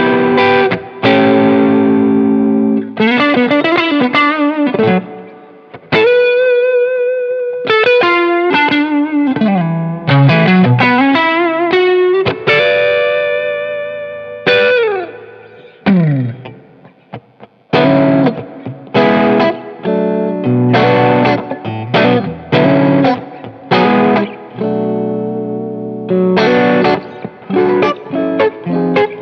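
Soloking MT-1A electric guitar played through distortion. It plays sustained lead notes with string bends and, about halfway, a long falling pitch glide, then short rhythmic chopped chords.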